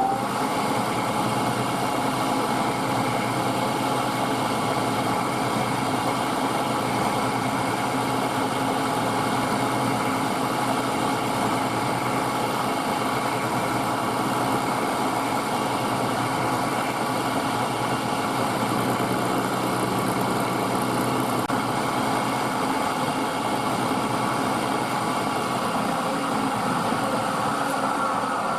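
Milling machine running steadily while taking the final half-millimetre finishing cut on a brass part. It starts just before this stretch and begins to wind down near the end, with a falling whine.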